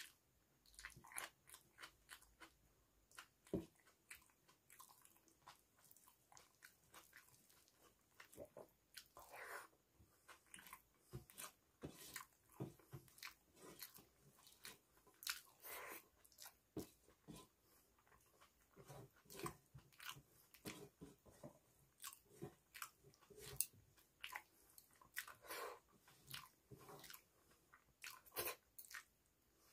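Close-miked chewing and wet mouth smacks of a person eating rice and dal with fried potato by hand, as irregular soft clicks several times a second.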